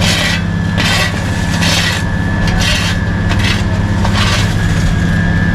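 Diesel engine of road-paving machinery running steadily, with rough scrapes repeating about once a second and stopping about four seconds in.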